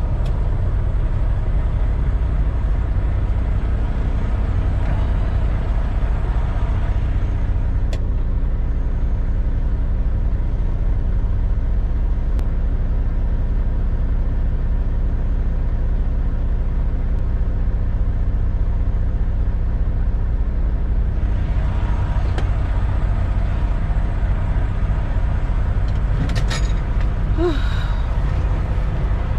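Heavy truck's diesel engine running with a steady low rumble. A few sharp clicks come near the end.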